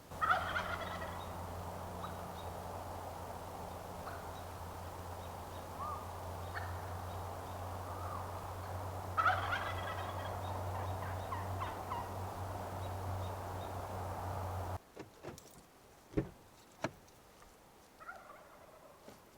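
Wild turkey toms gobbling at roost time. The loudest gobbles come right at the start and about nine seconds in, with fainter gobbles between them and one more near the end. A steady low hum runs underneath and cuts off about fifteen seconds in, followed by a few sharp clicks.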